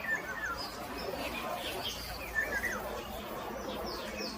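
Small birds chirping: a scatter of short, high chirps and quick falling notes over steady background noise.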